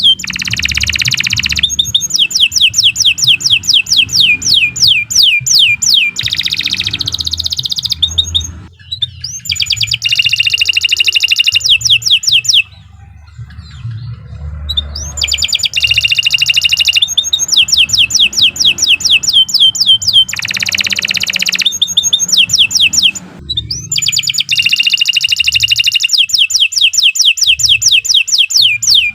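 Canary singing a long, continuous song: fast trills of repeated high whistled notes that each sweep downward, alternating with buzzy rolls. The song breaks off for a couple of seconds about halfway through, then resumes.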